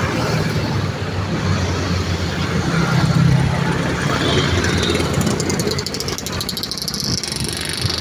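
Busy road traffic: a steady mix of vehicle engines and tyre noise passing by. The engine hum swells to its loudest about three seconds in as a vehicle goes past.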